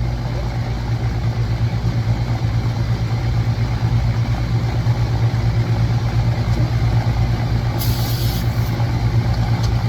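Central air-conditioning outdoor condenser unit running steadily, its compressor giving a strong electrical hum under a fan's rushing noise. It is running normally after a bad capacitor was dealt with: it is drawing normal amps and its pressures are stabilizing. A brief hiss comes about eight seconds in.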